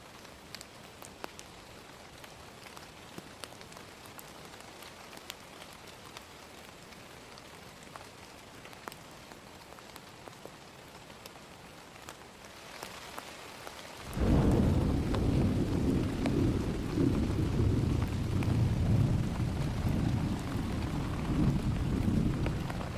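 Steady rain with single drops ticking close by, then about 14 seconds in a sudden loud, low rumble of thunder breaks in and keeps rolling over the rain.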